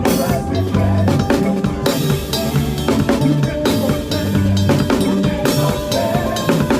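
Drum kit playing a makossa groove, with bass drum, snare and rimshots, over a band with bass and keyboard.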